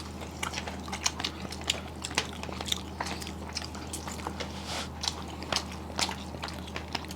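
Close-miked eating: irregular soft clicks and smacks of a mouth chewing food, over a steady low hum.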